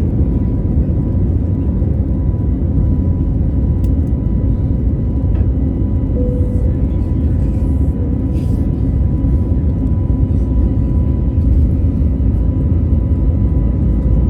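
Airbus A321neo jet engines running as a steady, loud low rumble with a faint constant hum tone over it, neither spooling up nor fading.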